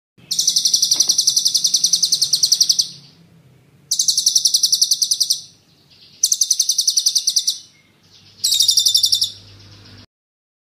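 Songbird giving four fast, high-pitched rolling trills, each a rapid rattle of one to two and a half seconds with short pauses between. The first is the longest.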